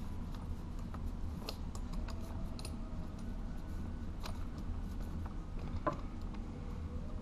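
Faint handling noise of copper electrical wire and a plastic plug being worked by hand: a few scattered small clicks and ticks as the ground wire is bent and fed toward the plug's terminal screw, with wire strippers picked up near the end. A steady low hum runs underneath.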